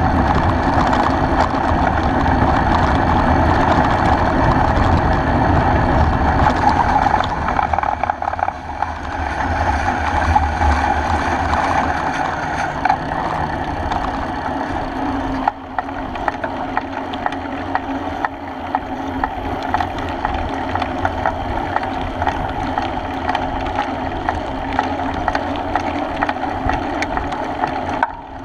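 Riding noise picked up by a bicycle-mounted action camera: a steady rush of wind with tyre and frame vibration. The deep wind rumble eases about twelve seconds in.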